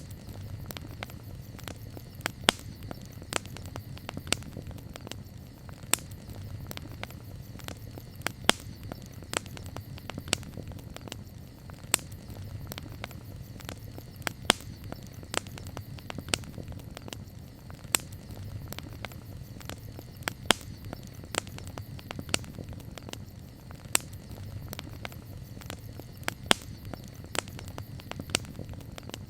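Wood campfire crackling: frequent sharp pops and snaps, several a second, over a low steady rumble of the burning fire.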